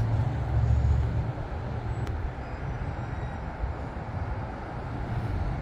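Outdoor ambience: a low, uneven rumble of wind on the microphone and distant road traffic, strongest in the first second.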